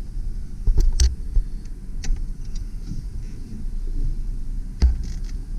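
Low rumble of a 2001 Mazda B4000's 4.0-litre V6 pickup, heard from inside the cab as it drives in four-wheel-drive low. A few sharp knocks cut through it, the loudest about a second in and near the end.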